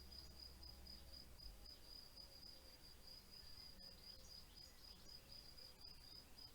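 Faint cricket chirping: a high, evenly pulsing trill that keeps up steadily.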